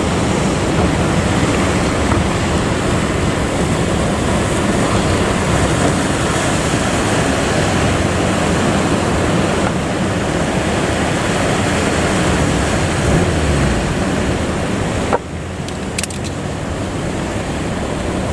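Steady noise of strong wind and sea waves. About fifteen seconds in it drops suddenly, with a couple of short clicks.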